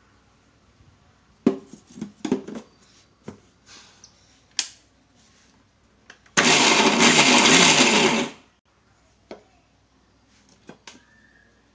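Indian mixer grinder (mixie) running in one short burst of about two seconds, grinding soaked almonds, cashews and poppy seeds into a coarse paste. A few knocks and clicks come before it, and faint clicks after.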